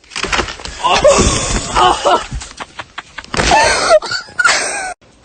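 Loud wailing cries with bending pitch, in two stretches, cutting off abruptly near the end.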